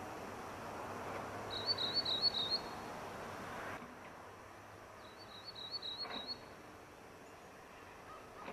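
A small songbird singing two short, high, rapid warbling phrases, each about a second long, a few seconds apart, over steady outdoor background noise.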